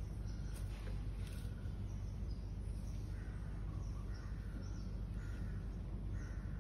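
Outdoor ambience: a steady low background rumble with small birds chirping faintly, short repeated chirps that start about halfway through. Two faint clicks in the first second and a half.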